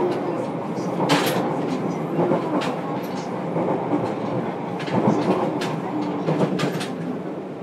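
JR Kyushu 303 series electric train (Hitachi IGBT VVVF drive) running, heard from inside motor car MoHa 303-102: a steady rumble of wheels and traction gear, with sharp clicks and rattles several times.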